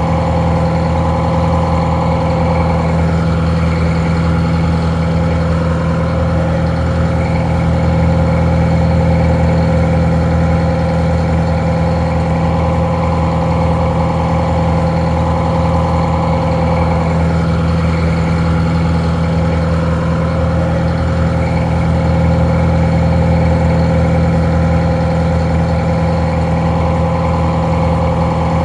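Detroit Diesel 4-71 two-stroke diesel engine idling steadily, slightly muffled.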